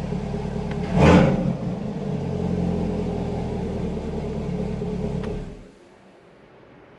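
C8 Corvette's 6.2-litre LT2 V8, fitted with a Paragon track exhaust, idling with a deep, steady rumble and a brief louder burst about a second in. The engine then shuts off near the end and the sound drops away suddenly.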